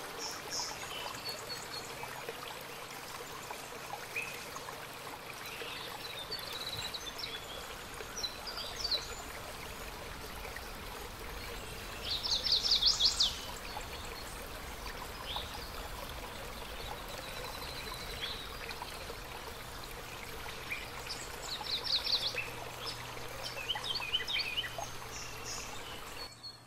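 Birds singing over a steady background hiss: scattered chirps, and two louder trills of fast repeated notes, one about halfway through and one near the end.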